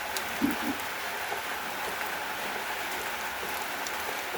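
Steady rain falling, an even hiss of drops on a surface. Two short, dull thuds come about half a second in.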